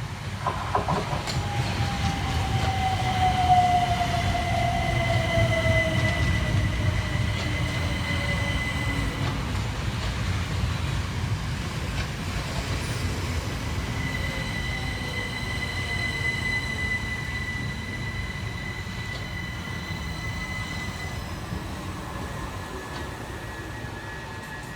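Two coupled Class 377 Electrostar electric multiple units running into the station and braking, with a steady low rumble from the wheels and a whine that falls in pitch as the train slows. A high-pitched squeal comes in two long stretches.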